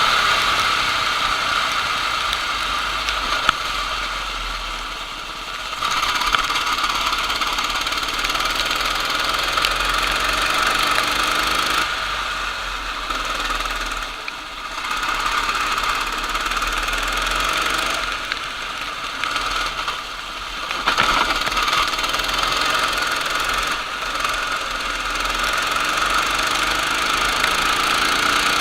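Racing kart engine running hard at speed, easing off briefly several times as the revs drop and pick back up.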